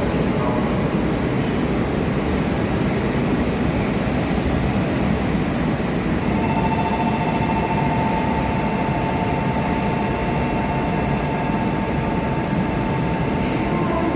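JR East Shinkansen train running: a steady, loud rumble and rush of rail noise. About six seconds in, a steady whine joins it.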